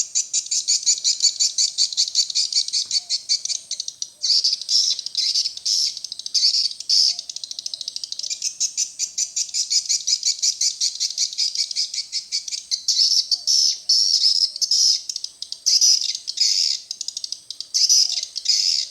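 Swiftlet calls: a fast, continuous train of high, clicking twitters with louder clusters every second or so. This is the swiftlet lure call that a swiftlet house plays to draw the birds in to roost.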